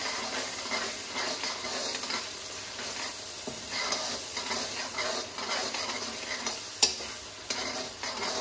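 A thick curry base of garlic, onion and tomato sizzling in hot oil as the freshly added ground spices fry, stirred with repeated scraping strokes through the pot. A sharp knock about seven seconds in is the loudest sound.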